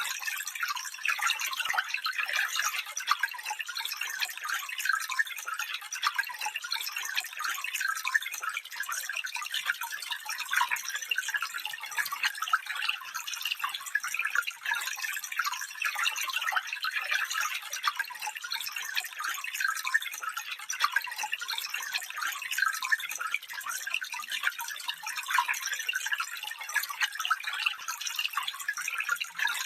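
Stream water trickling and babbling over stones, a steady flickering splash with no deep rush to it.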